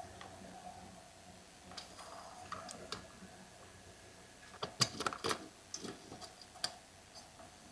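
Light clicks and taps of small parts and tools being handled while the chainsaw's fuel line and filter are fitted, with a quick run of sharper clicks a little past halfway. A faint steady hum lies underneath.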